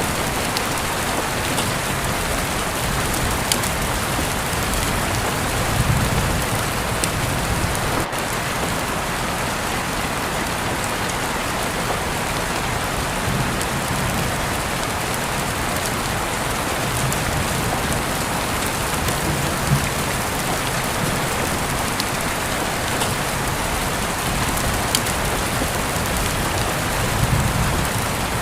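Steady, dense rainfall, with now and then the sharp tick of a single drop and a few soft low rumbling swells.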